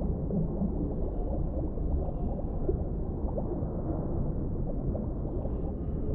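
Underwater ambience: a steady, muffled deep rumble with faint scattered bubbling.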